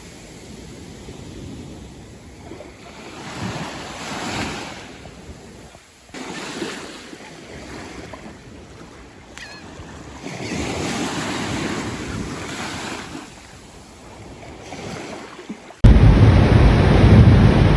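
Sea waves breaking and washing up on a beach, surging every few seconds. Near the end it cuts suddenly to much louder wind buffeting the microphone.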